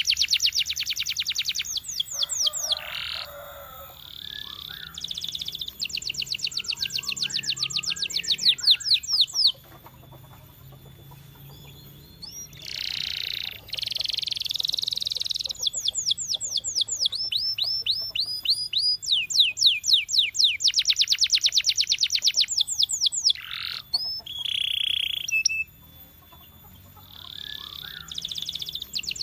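Domestic canary singing: fast trills of rapidly repeated sweeping notes, in phrases of a few seconds broken by short pauses.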